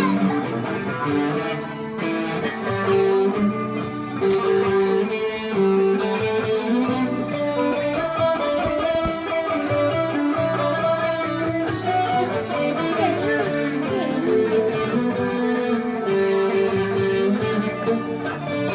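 Guitar music: plucked and strummed guitar notes playing continuously.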